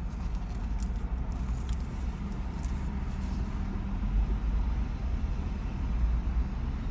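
Steady low rumble of an idling vehicle engine, with a few faint ticks over it.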